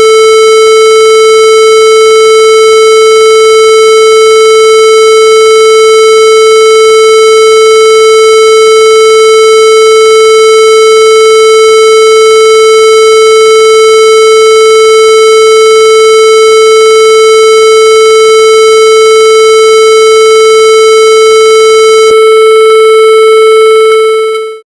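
Loud, steady electronic buzzing tone held at one unchanging pitch, a synthetic square-wave sound. It fades out and stops right at the end.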